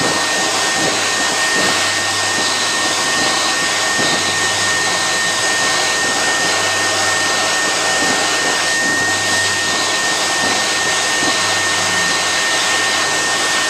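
Build-A-Bear stuffing machine's blower running steadily: a loud, even rush of air with a thin, steady high whistle over it.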